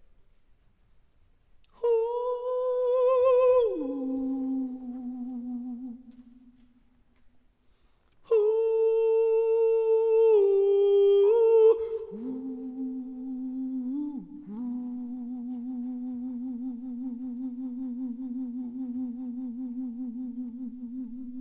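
A solo singer humming a wordless, unaccompanied melody with vibrato. It comes in two short phrases that step down from high notes, then a long, low held note.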